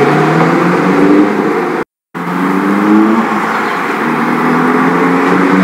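Car engine accelerating, its pitch climbing again and again as it revs. The sound cuts out completely for a moment about two seconds in, then carries on.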